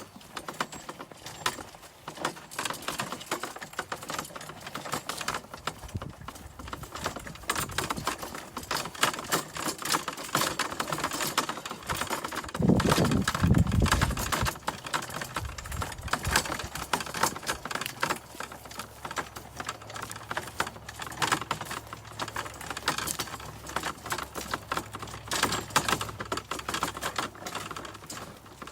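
Chickens moving about the coop: a dense run of small irregular clicks and rustles, as of claws and beaks scratching and pecking in straw, with a louder low rumble about twelve seconds in.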